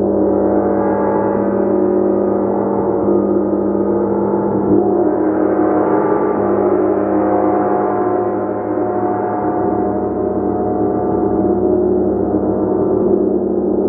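A gong played continuously, its dense wash of overlapping tones swelling and ebbing without a break.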